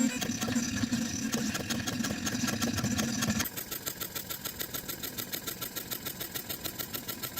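Robotic pen plotter's stepper motors running as it draws: a steady buzz that changes abruptly about three and a half seconds in to a quieter, rapid, regular pulsing.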